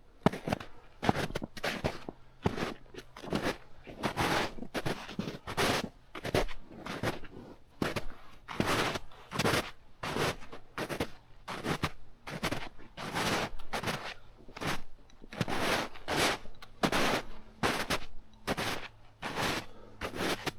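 Footsteps of a person walking at a steady pace, about two steps a second, each step a short noisy scuff or crunch on the ground.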